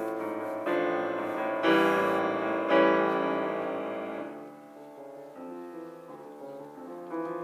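Solo piano playing loud struck chords that ring out, then dropping to softer playing about four seconds in and growing louder again near the end.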